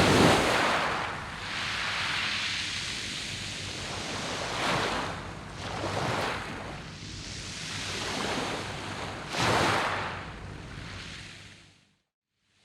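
Waves breaking and washing over a beach of round pebbles, the surf hiss swelling in several surges, the loudest right at the start. Near the end the sound fades out to silence for about a second.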